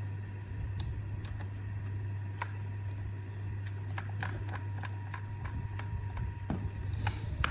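Scattered light clicks and taps of hand work on small parts, over a steady low hum.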